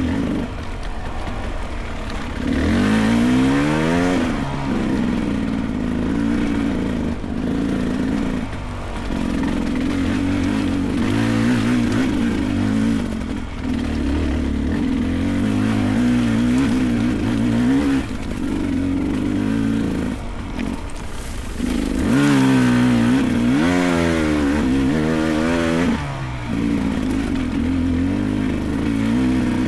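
Beta 300 Race two-stroke dirt bike engine running and revving as it is ridden, the pitch shifting with the throttle, with two sharp rising rev-ups, one about three seconds in and another past the twenty-second mark.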